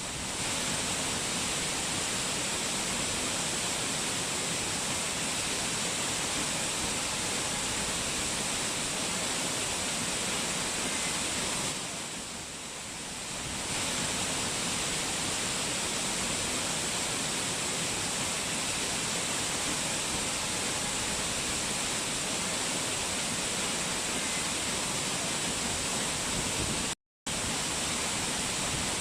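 Mountain waterfall, water rushing in a steady, even hiss. The sound softens briefly about twelve seconds in and cuts out for a split second near the end.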